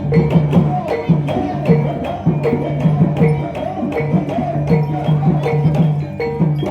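Javanese gamelan accompaniment for an ebeg horse dance: a fast, even beat of sharp percussion strikes, about four a second, over steady low sustained tones, with a wavering melodic line above.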